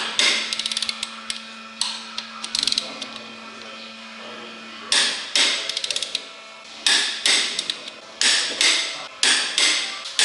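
Ratchet and torque wrench tightening the crankshaft main bearing cap bolts to 85 N·m: quick runs of ratchet clicking, then from about halfway a string of sharp metallic clicks, two or three a second.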